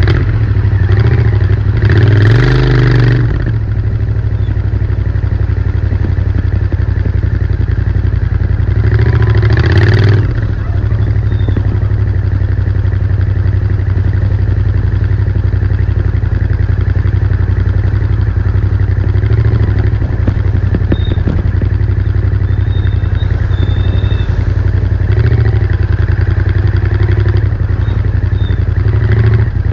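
Royal Enfield Interceptor 650's 648 cc parallel-twin engine and stock exhaust running steadily, with two short revs about two seconds and ten seconds in and a few smaller ones later.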